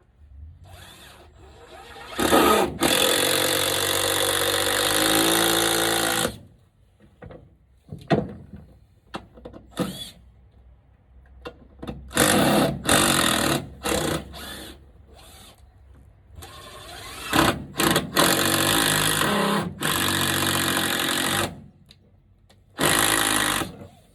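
Power drill running in four bursts of one to four seconds each, the motor's pitch shifting under load, with short knocks between the bursts.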